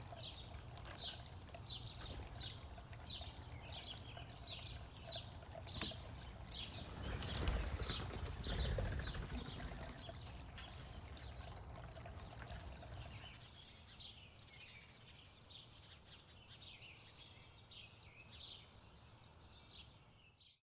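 A small bird calling over and over, short high down-slurred chirps about two a second, with a low outdoor rumble underneath. A louder rushing noise swells and fades around the middle.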